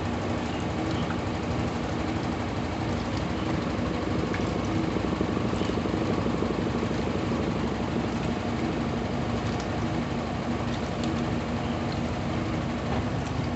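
Brastemp Intelligent 7 kg washing machine running mid-cycle: a steady motor hum over continuous noise.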